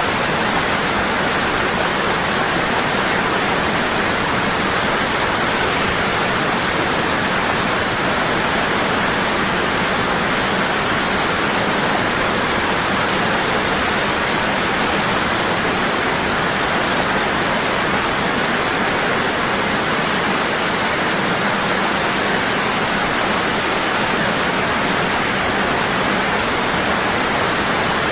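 Waterfall falling hard and constant: a steady, unbroken rush of water.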